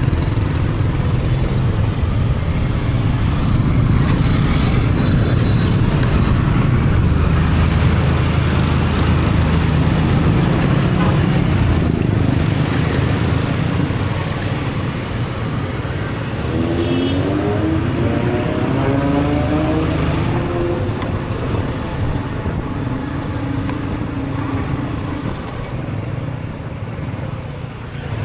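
Motorbike riding in traffic: steady engine and road noise. Past the middle, an engine note climbs in pitch for a few seconds, as if revving up.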